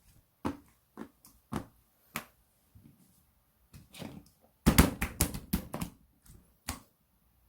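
Hands handling a small soft toy, making a run of sharp taps and clicks about every half second, then a quick cluster of louder clicks and pops about five seconds in.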